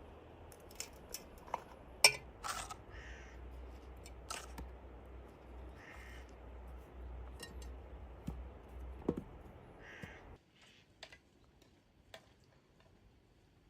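A bird gives a few short, harsh calls about three seconds apart, over scattered sharp clicks and knocks. A low background hum cuts off suddenly about ten seconds in.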